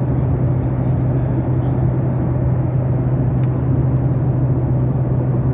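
Steady, unchanging drone of a running vehicle, with a constant low hum.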